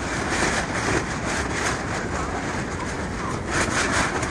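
Strong wind gusts battering a Stoic Madrone 4-person tent, heard from inside: a continuous rushing rumble with the tent fabric flapping and snapping against the flexing poles.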